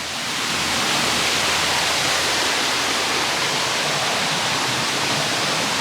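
A small rain-fed waterfall spilling out of a hillside, its water rushing steadily. It grows louder over the first second, then holds.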